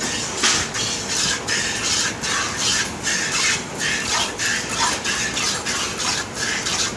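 Hand-milking a cow: streams of milk squirting into a pail, a rhythmic hiss of about three squirts a second.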